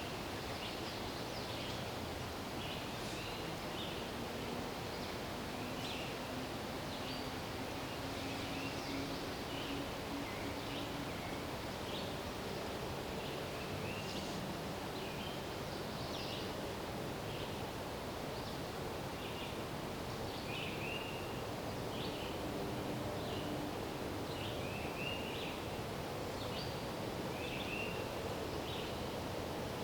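Outdoor woodland ambience: a steady rustling wash of wind in the trees, with many short bird chirps and calls scattered throughout.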